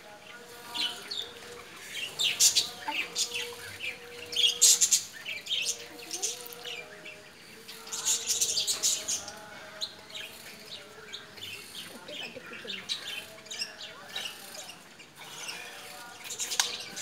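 Small birds chirping and twittering in repeated high bursts every few seconds.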